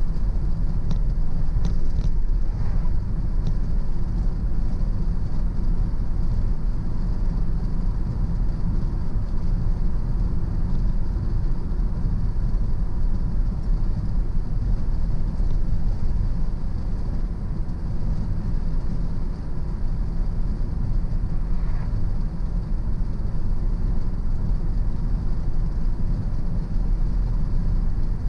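A car driving at steady speed: low, even engine and tyre noise.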